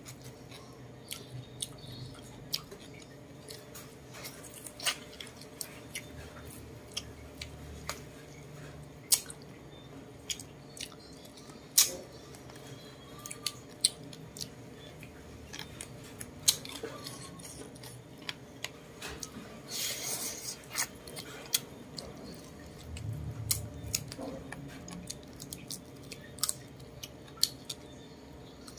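Close-up eating sounds of roast chicken: chewing and biting meat off the bone, with many sharp, irregular mouth clicks and smacks. A denser, noisier stretch comes about twenty seconds in.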